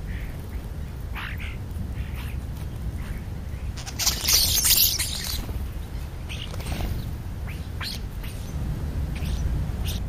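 Birds calling at a feeding spot: short chirps and calls scattered through, over a steady low rumble. About four seconds in comes a loud rustling burst lasting about a second.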